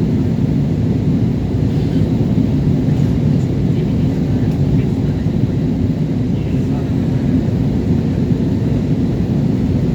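Steady low rumble of engine and airflow noise inside the cabin of a Jetstar Japan Airbus A320 airliner on approach.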